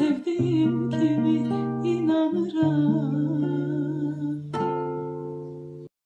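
A girl's voice singing the final held, wavering notes of a song over a strummed guitar. About four and a half seconds in, a last strummed chord rings out and fades, then cuts off suddenly near the end.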